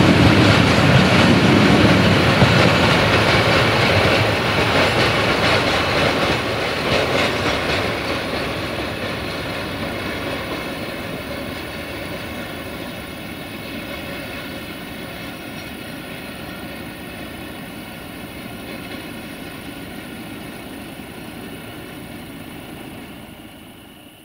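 Freight train wagons rolling past on the rails, their wheels loud at first. The sound then fades steadily as the train draws away.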